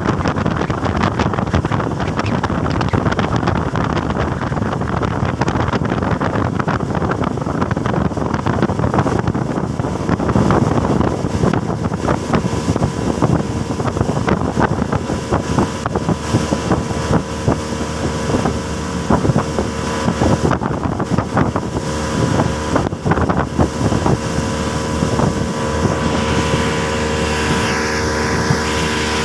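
Speedboat engine running steadily at speed, with heavy wind buffeting the microphone and rushing water. A steady engine hum stands out more clearly in the second half.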